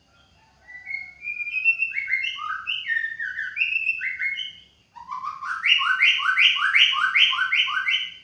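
White-rumped shama singing: a run of varied whistled notes sliding up and down, then after a short pause a fast string of about ten repeated notes, about three a second, that stops abruptly.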